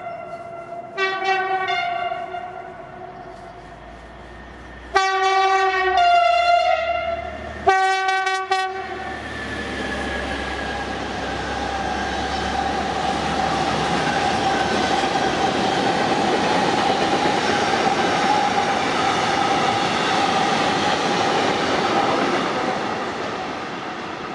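Train horn sounding a series of blasts, the longest and loudest about five seconds in, followed by the train passing: a steady rumble of wheels and running gear with a held hum that swells and then eases off near the end.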